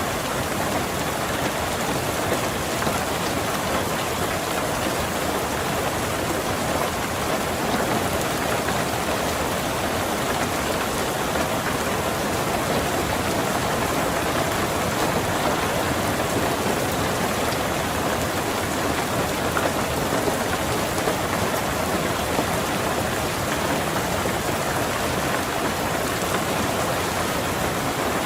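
Rain falling steadily on a car's roof and windows, a constant even patter with no thunder.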